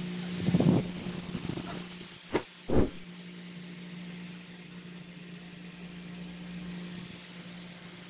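Electric stand fan fitted with a copper cooling coil, running with a steady low motor hum. A few low thumps and a click in the first three seconds are the loudest sounds.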